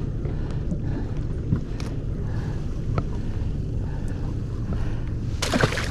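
Boat motor running with a steady low hum and wind on the microphone. A short, loud rush of noise comes near the end.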